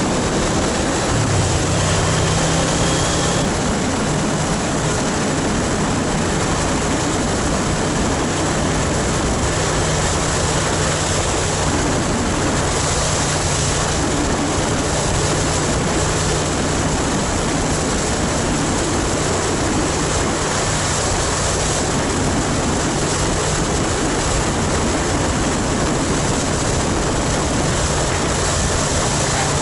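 Motorcycle on the move: its engine running steadily under heavy wind rush on the microphone, the engine note stepping up about a second in.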